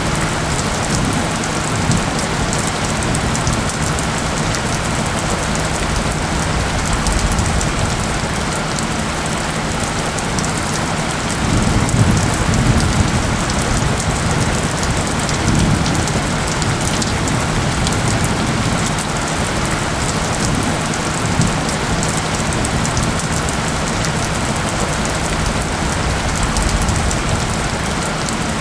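Steady heavy rain falling, with a low steady tone underneath, the soundscape's isochronic tone. A low rumble swells briefly about twelve seconds in.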